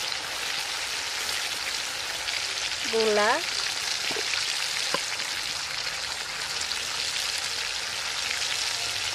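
Spice paste frying in hot oil in a pan, a steady sizzling hiss, with a brief click about five seconds in.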